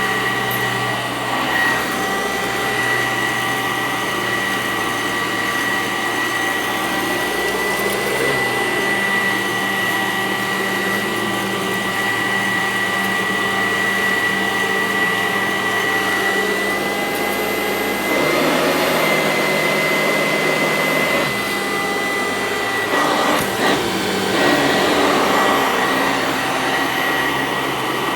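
Sanitaire SC886 commercial upright vacuum cleaner running steadily on carpet, its motor giving a steady high whine. The sound turns rougher and slightly louder for a few seconds about two-thirds of the way in.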